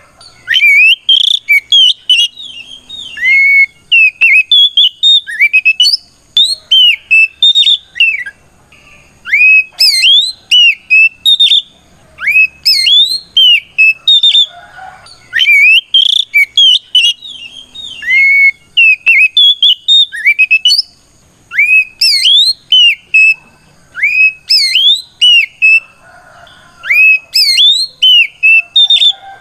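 Oriental magpie-robin (kacer) singing a loud, open challenge song used to provoke rival males: rapid clear whistled notes that swoop sharply up and down, delivered in bursts with brief pauses between them.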